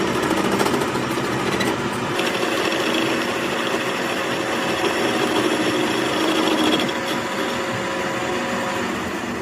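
A power tool running steadily with a rapid mechanical chatter.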